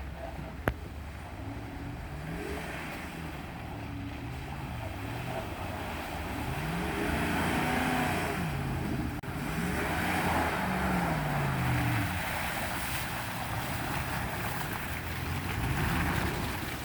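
Truck engines revving, the pitch rising and falling again and again as the trucks power through, over a steady rushing noise. A sharp click comes about a second in.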